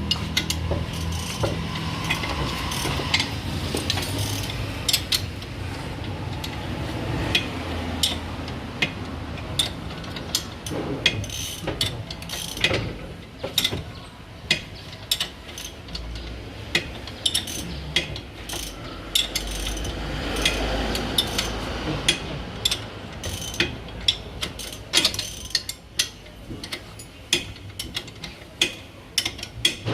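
Hand ratchet wrench clicking in short, irregular runs as fasteners are worked on a car's underside.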